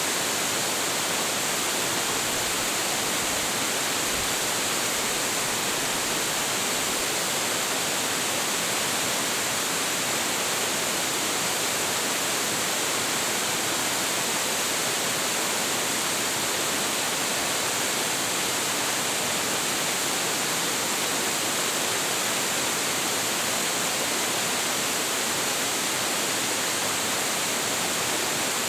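Large waterfall, about 26 m high with a heavy flow of water, roaring steadily as it falls into its pool.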